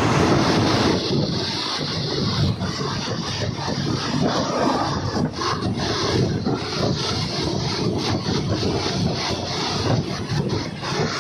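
Passenger train running, heard from on board: a steady rumble with dense rattling of the carriage and rushing air.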